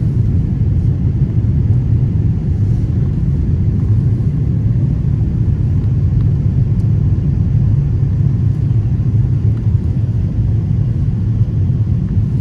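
Steady low rumble of an Airbus A330's engines and airflow heard inside the passenger cabin in flight.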